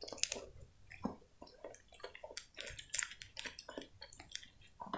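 Close-up chewing of a sponge cupcake topped with whipped cream: a quick, irregular run of short mouth clicks and smacks.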